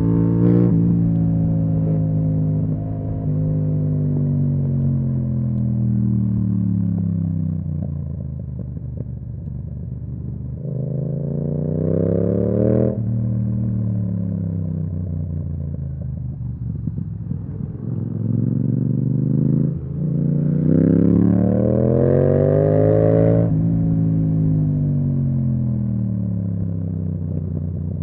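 Yamaha MT-07's parallel-twin engine through an Akrapovic exhaust on the move, winding down slowly as the bike slows. Three times it climbs in pitch under throttle, then drops away sharply as the throttle closes.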